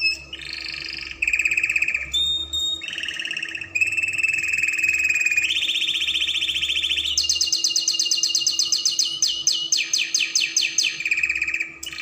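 Spanish Timbrado canary singing a long run of rapid rolling trills, switching from one trilled phrase to the next every second or two, with a fast run of evenly spaced notes late in the song.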